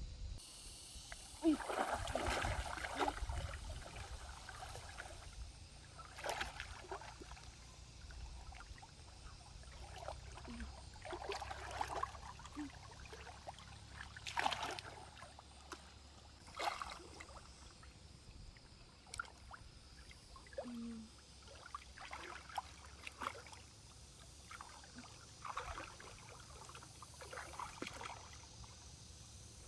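Water splashing and sloshing in short, irregular bursts every second or two in a shallow stream, over a faint trickle of running water.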